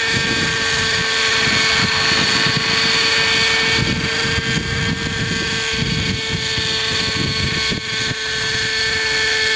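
Hirobo Sceadu model helicopter's .50-size two-stroke nitro engine and rotor blades running steadily in flight, a constant high whine, with gusty wind buffeting the microphone. The revs are somewhat low because the fuel mixture is not quite right, according to the owner.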